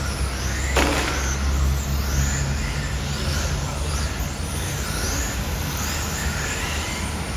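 Radio-controlled cars' electric motors whining in short rising bursts as they accelerate, over a steady low rumble of street traffic. A sharp hiss comes about a second in.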